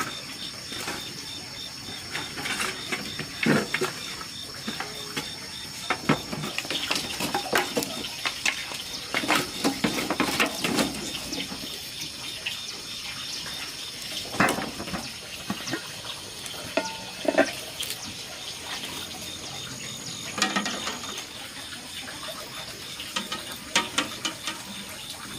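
Water splashing and being handled, with irregular knocks and clinks of kitchen things, over a steady high whine.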